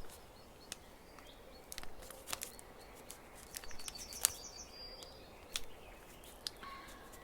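Folded paper being handled and creased, giving scattered small clicks and crackles. A few faint high chirps come around the middle.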